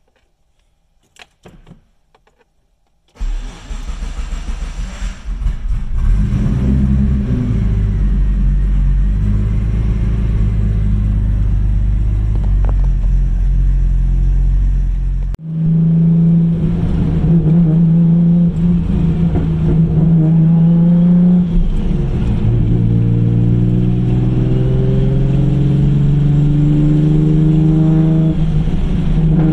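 Warm start of a 1997 Mitsubishi 3000GT VR-4's single-turbo 3.0-litre V6 on a newly loaded Haltech map: a few faint clicks, then about three seconds in it cranks and catches, runs unevenly for a couple of seconds and settles into steady running. After a sudden break about halfway through, it runs steadily at a raised speed, the tachometer near 3,000 rpm.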